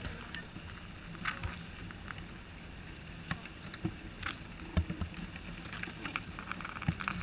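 Scattered light knocks and clicks from hive equipment and comb being handled, over a faint low hum.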